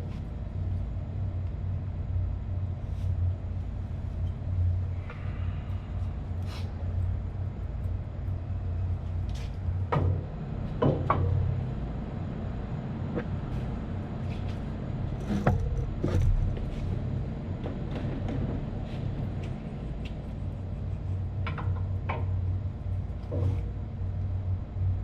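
Steady low hum of running plant-room machinery, with scattered metallic clicks and knocks from tools at work on the motor and its mounting.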